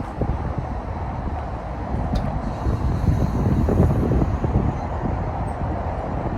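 Electric train running along the track, a steady rumble that swells slightly in the middle, with strong wind buffeting the microphone.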